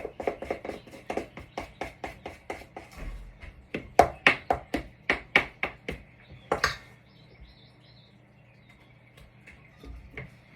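Spoon clacking against a mixing bowl while stirring biscuit dough, about four quick knocks a second. The clacking stops about two-thirds of the way through with one louder knock.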